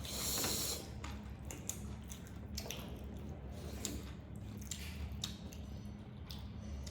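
Close-up mukbang eating sounds: wet chewing and squishing of chicken curry and rice, with scattered small clicks, over a steady low hum.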